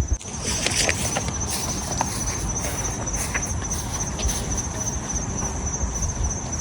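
Insects trilling steadily at a high pitch over a steady background hiss, with a few faint ticks and taps.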